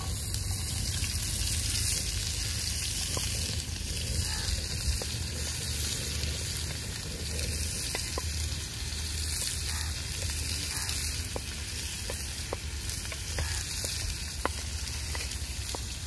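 Onions frying in hot oil in a pan over a wood fire: a steady sizzle with scattered small pops and crackles.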